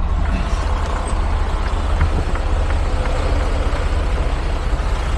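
Semi-truck's diesel engine running, a steady low rumble with road noise over it and a few faint clicks.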